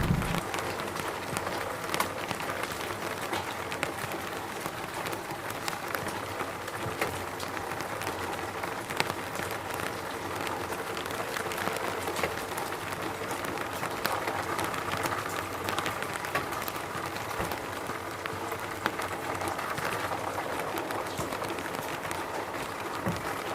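Steady rain falling, with many individual drops ticking throughout. The tail of a thunder rumble dies away right at the start.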